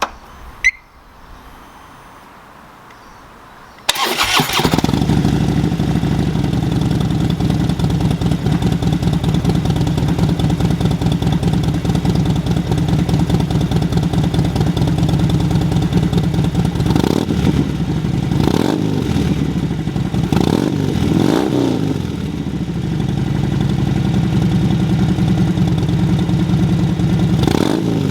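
A 2017 Harley-Davidson Dyna Fat Bob's Twin Cam 103 V-twin, through S&S Slash Cut slip-on mufflers, starts about four seconds in after a short electronic chirp and settles into a steady idle. In the second half the throttle is blipped a few times, revs rising and falling, and it is revved again near the end.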